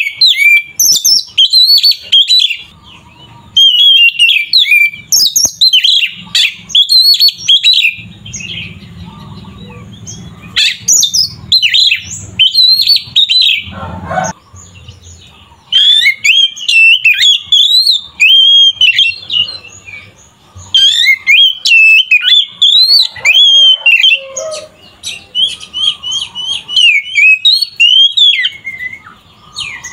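Oriental magpie-robin (kacer) singing loudly in fast, varied whistled phrases, with a short lull about a third of the way in before it resumes.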